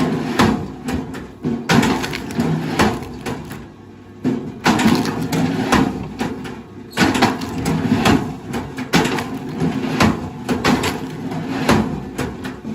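Wood cracking and splintering in dense, irregular bursts under a heavy machine, over the steady hum of its engine; the crackling thins briefly about four seconds in.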